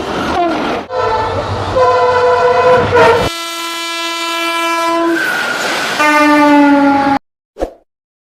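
Indian Railways locomotive horn sounding in a run of long blasts that change pitch several times, over a low rumble of the train for the first three seconds; the sound cuts off abruptly about seven seconds in.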